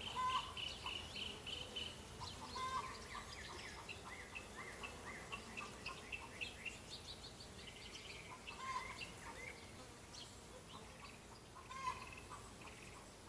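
Birds chirping in quick series of short, repeated notes over a faint outdoor background.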